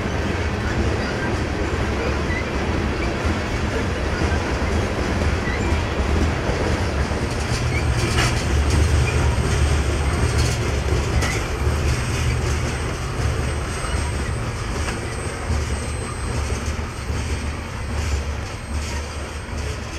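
Freight train of covered grain hopper cars rolling past: a steady rumble of steel wheels on the rails with a few sharp clicks from the wheels, easing off slightly near the end as the last cars pull away.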